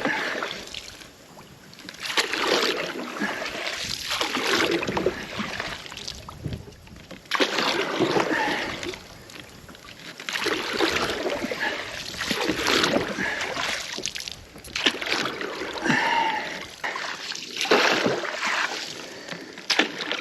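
Water splashing and swishing in repeated strokes, about every two to three seconds, as a landing net is pulled through the water as a makeshift paddle.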